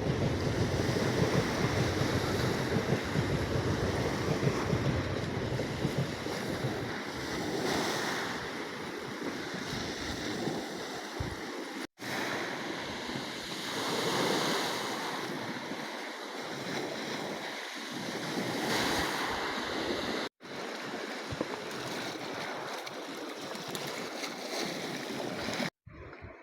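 Sea waves washing in, swelling and easing every few seconds, with wind rumbling on the microphone, heaviest in the first few seconds. The sound drops out abruptly three times for an instant.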